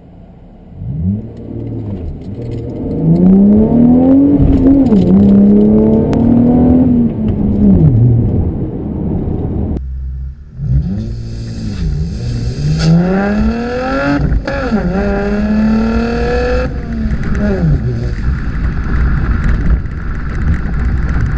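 Chevrolet Camaro 3.6-litre V6 with the dual-mode performance exhaust, accelerating hard through the gears. The engine climbs in pitch and dips at each shift, loud with the exhaust valves opened above 3,000 RPM. This happens twice, with a break about ten seconds in. Near the end it settles to lower, steadier running as the revs fall below 3,000 RPM and the valves close.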